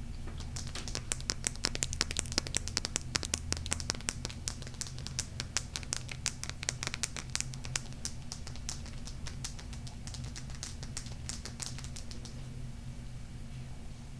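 Rapid, light tapping on a golden crystal stone: a quick run of sharp clicks, several a second, that starts about half a second in and thins out and stops near the end.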